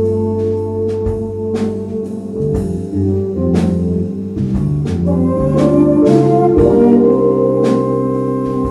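A live band playing: held organ-style keyboard chords over a moving bass line, with drum kit hits.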